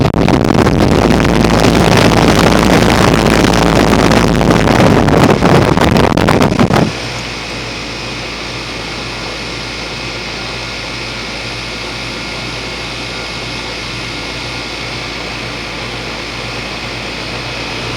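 2004 Goodman 3.5-ton heat pump outdoor unit running, its compressor and condenser fan giving a steady hum with a low, even tone. For about the first seven seconds a loud rush of air buffets the microphone, then it drops abruptly to the steady hum. It seems to be running fine by its sound, though the unit has frozen up in one spot again and is not heating the house.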